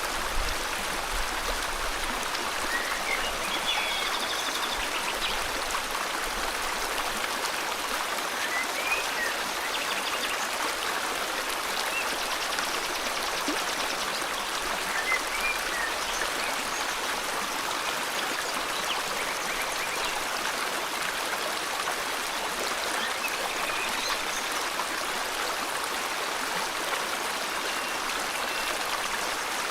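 Steady rushing of a flowing river, with a few faint, short bird chirps scattered over the water noise.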